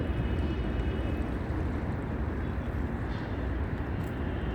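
Steady rumble and wash of sea waves, with no distinct breaks or impacts.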